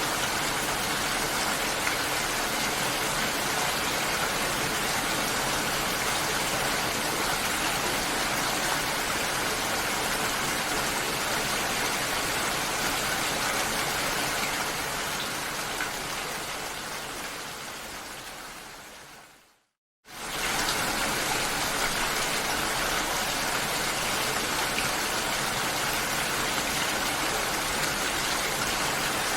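Steady hiss of water, like rain, that fades out over several seconds to a moment of silence about twenty seconds in, then starts again abruptly at full level.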